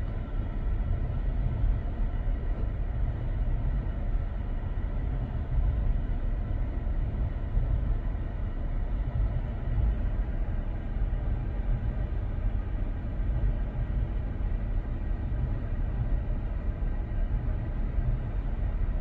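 Freight train cars rolling past on the rails: a steady, unbroken low rumble.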